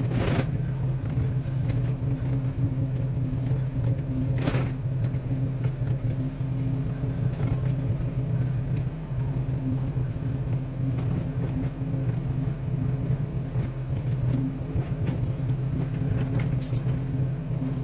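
Excavator's diesel engine running steadily under working load, with two short, harsh noises cutting through, one right at the start and one about four and a half seconds in.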